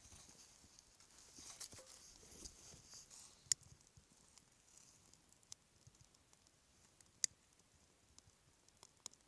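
Small kindling fire of birch bark and thin sticks catching: faint hissing in the first few seconds, then sparse sharp crackling pops, the two loudest about three and a half and seven seconds in.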